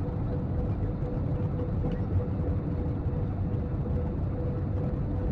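Steady low rumble of a jet airliner heard from inside the passenger cabin, engine and airflow noise with a constant hum over it.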